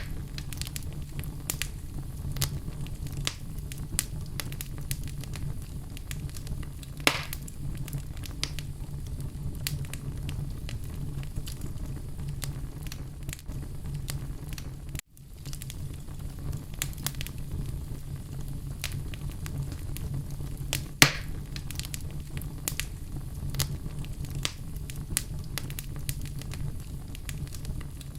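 Wood fire burning in a fireplace: a steady low rumble of flame under frequent small crackles, with two louder pops about a quarter of the way in and about three quarters in. The sound cuts out for an instant about halfway.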